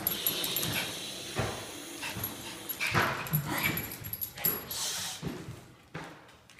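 A dog making a series of short, irregular vocal sounds with gaps between them, fading toward the end.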